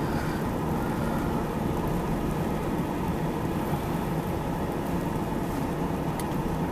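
A steady mechanical drone with a hiss over it, even throughout with no distinct events.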